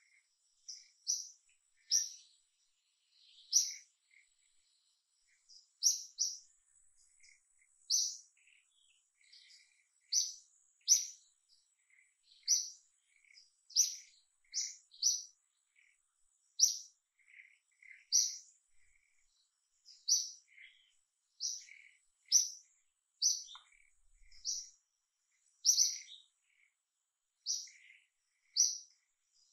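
A small bird chirping over and over: short, sharp, high chirps, about one every second or two.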